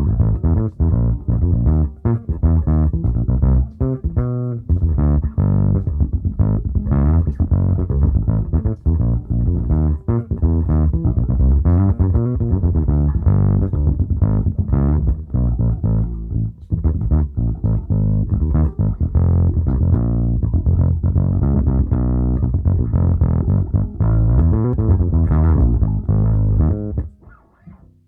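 Electric bass guitar played as a continuous line of plucked notes through a SansAmp bass driver preamp into a real bass amp and speaker cabinet. The playing stops about a second before the end.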